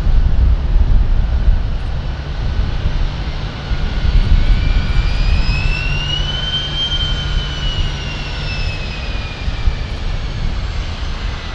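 Douglas DC-8 freighter's jet engines on takeoff: a loud, heavy rumble with a high whine that climbs in pitch to about halfway through, then slides down again as the jet goes by.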